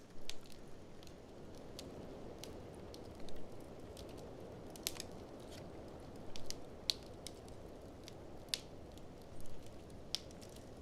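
Wood fire crackling, with scattered sharp pops at irregular moments, over a steady low rush of blizzard wind.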